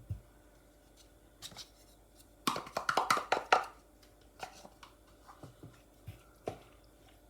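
Kitchen handling sounds at a mixing bowl: scattered clicks and knocks from a small container and utensils, with a quick run of knocks about two and a half seconds in as the egg is tipped in.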